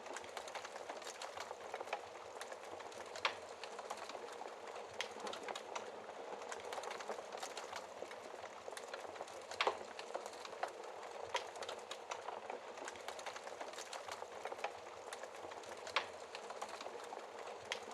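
Wood fire crackling in a fireplace: a steady hiss with frequent small crackles, and sharper pops about three, nine and sixteen seconds in.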